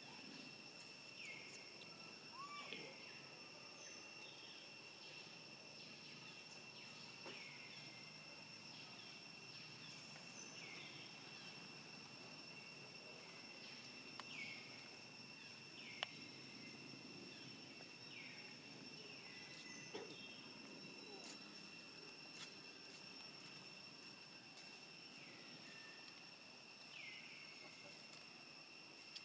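Faint outdoor ambience of insects trilling in a steady high drone, with short falling chirps repeating every second or two and a few faint clicks.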